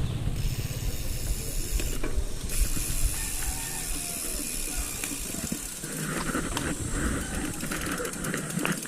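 Bicycle rear hub ratcheting, a fast run of fine clicks as the wheel freewheels, with sharper separate clicks toward the end.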